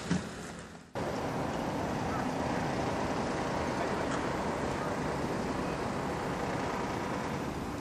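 Steady noise of a distant electric-locomotive-hauled container freight train moving through a rail yard. It begins abruptly after a brief fade about a second in.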